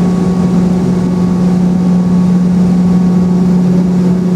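Steady drone inside a Boeing 717 cabin from its rear-mounted Rolls-Royce BR715 engines at ground idle, with a strong, constant low hum and a fainter higher whine.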